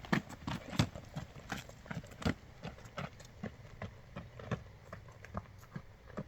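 Footsteps on a rocky dirt trail: quick, uneven steps, each a sharp knock, growing a little fainter in the second half as they move off.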